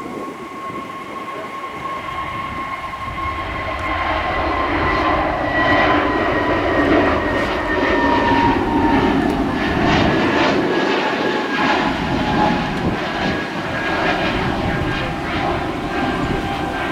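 Airbus A320 jet engines at take-off power, a loud rushing roar with a high fan whine that slowly falls in pitch. It builds over the first few seconds, is loudest through the middle and eases slightly near the end as the airliner passes.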